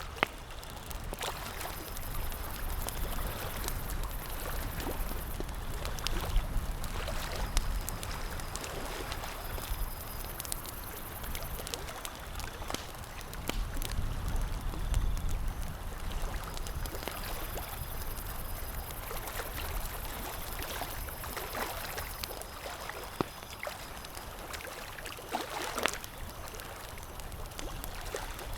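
Campfire crackling: scattered sharp pops and snaps over a steady low rushing wash.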